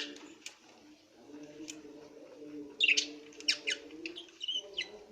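Green pet parrot giving short, sharp chirps and squawks: a single call, then a quick cluster of calls about three seconds in, and a few more near the end.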